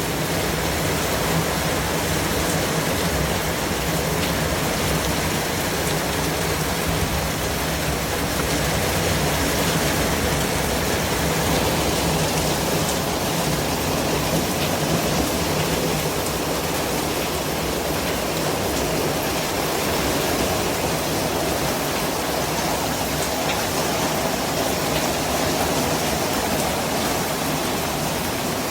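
Steady white-noise track: an even, unchanging hiss spread across all pitches.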